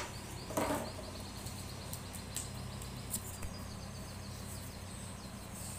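Quiet background ambience: faint, rapid high-pitched bird chirping repeating throughout over a steady low hum. A brief soft noise comes about half a second in, and a few light clicks follow.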